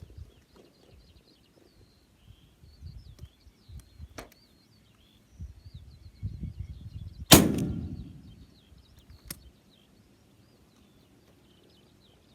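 A single shotgun shot about seven seconds in, echoing away over about a second, with a faint click about two seconds later. Wind buffets the microphone and small birds chirp faintly throughout.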